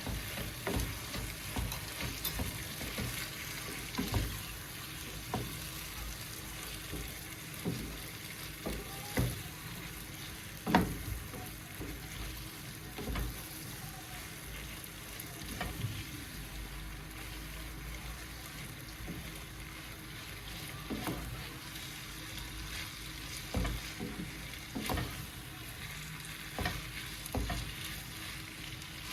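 Food sizzling as it fries in a pan: a steady hiss with irregular clicks and knocks of a utensil stirring, the loudest knock about eleven seconds in.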